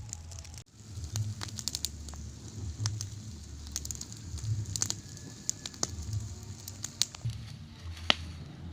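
Wood fire crackling, with scattered sharp pops over a low rumble that swells and fades.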